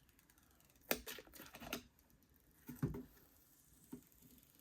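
A protective sticker being peeled off the plastic of a filament dryer, in a few short pulls about a second in, again just before 2 s, near 3 s and once more near the end.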